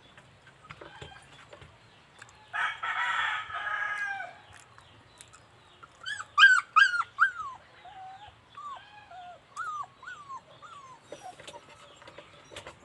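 A rooster crows once, then a dog gives a run of short, high yelps that fall in pitch, loudest at first and fading over about five seconds.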